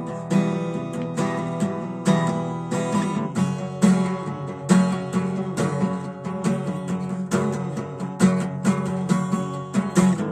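Acoustic guitar strumming chords in a steady rhythm, an instrumental passage in E minor.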